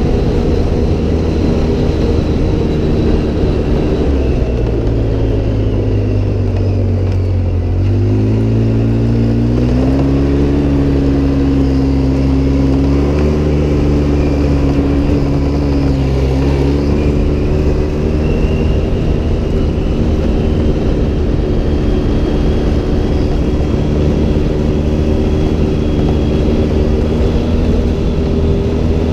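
Off-road vehicle's engine running while driving: its pitch sinks about four to eight seconds in, climbs again in steps over the next few seconds, dips briefly around the middle, then holds steady.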